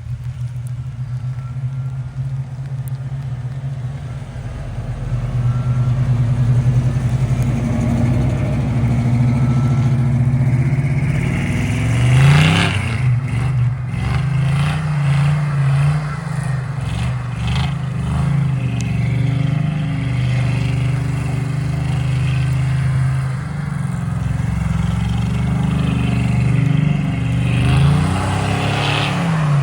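Engine of a 1989 Chevrolet K5 Blazer under way, its pitch rising as it revs about twelve seconds in and again near the end, then settling back.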